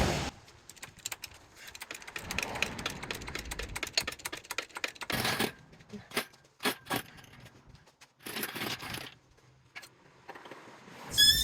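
Scattered light metallic clinks, jingles and rattles of metal parts and tools being handled during an engine install. Near the end comes one louder clank that rings briefly.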